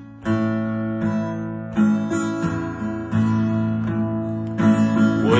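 Acoustic guitar playing the introduction to a waltz in the key of A, with chords struck about every second and a half and left ringing.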